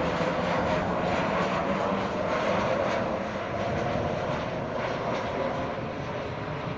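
An airliner's engines running loud and steady, then easing off toward the end as the aircraft moves away.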